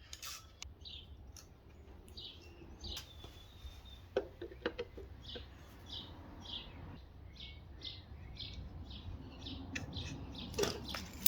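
A small bird chirping over and over in short, evenly spaced notes, about two or three a second. A few light clinks of hand tools come about four seconds in.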